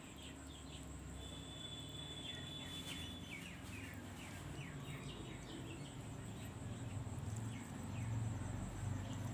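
Birds chirping in quick runs of short, falling notes, with a held whistle near the start, over a steady low hum.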